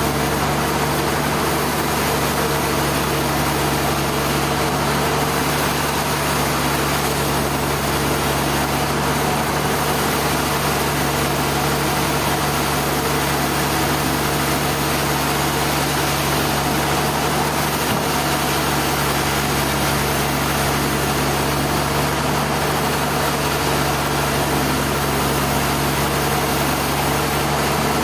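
An engine running steadily at an even speed, a constant low hum under a dense mechanical noise, with no change in load or pace.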